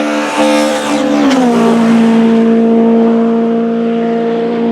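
Mitsubishi Lancer race car's engine running at high, steady revs. Its pitch drops a step just over a second in and then holds.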